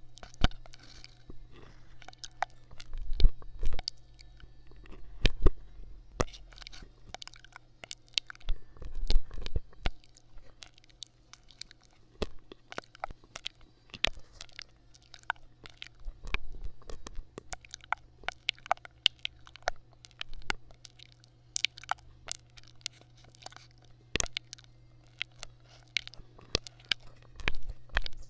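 Close-miked ASMR trigger sounds: dense, irregular crackling clicks, with a few louder low thumps in the first ten seconds, over a steady low hum.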